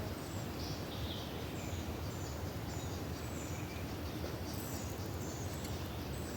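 Steady outdoor background noise, with birds chirping faintly in short, repeated calls.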